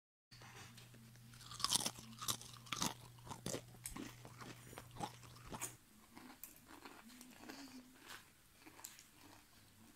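Someone biting into and chewing crispy deep-fried potato, with a run of sharp, irregular crunches that are loudest about two seconds in and then soften. A low steady hum runs underneath and stops abruptly about halfway through.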